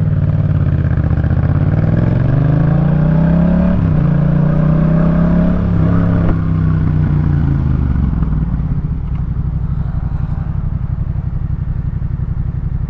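A 2018 Yamaha MT-07's parallel-twin engine running through a Jeskap K4 full exhaust, pulling hard with rising pitch. The pitch dips briefly about four seconds in, as on an upshift, then rises again. About six seconds in the throttle closes and the revs fall away to a steady lower note.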